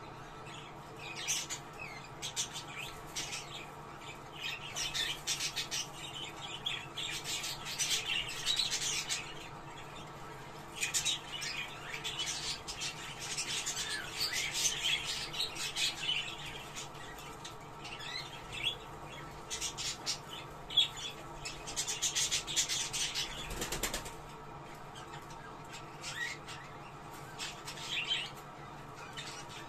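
Budgerigars chattering and warbling in irregular bursts with short pauses: the chatter of a budgie flock, used as a breeding-stimulation sound.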